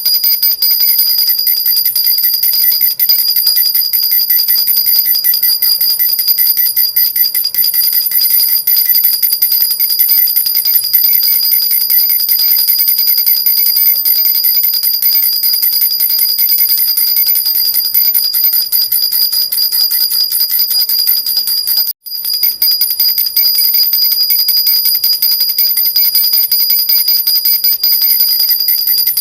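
Jhunjhuna, an Indian metal baby rattle with small jingle bells, shaken nonstop in a rapid, even jingling with a steady high ringing. The sound cuts out for an instant about three quarters of the way through, then carries on.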